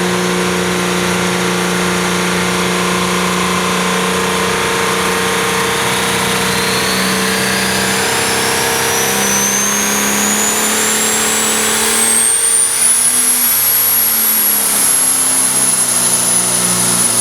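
International Cub Cadet 169 pulling tractor's engine running hard at full throttle through a pull. A high whine climbs steadily in pitch from about six seconds in, then holds near the end.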